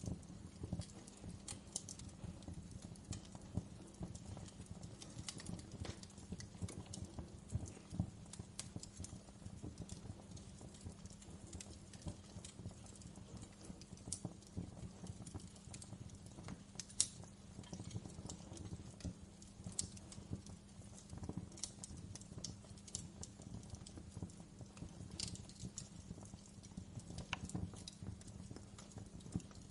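Wood fire crackling in a fireplace: irregular sharp pops and snaps over a steady low roar of the flames, with one louder pop about halfway through.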